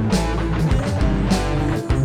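Live worship band playing an instrumental passage: electric guitar and bass over a steady drum beat.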